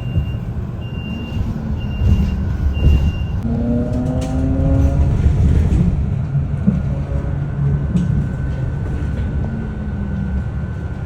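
City bus running, heard from inside, with a heavy steady rumble; its engine rises in pitch as it pulls away, about four seconds in. A repeating electronic beep sounds during the first three seconds.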